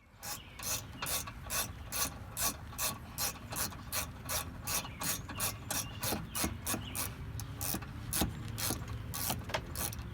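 Hand ratchet wrench clicking in a steady run of strokes, about two to three clicks a second, as a fastener is worked during an air suspension compressor replacement.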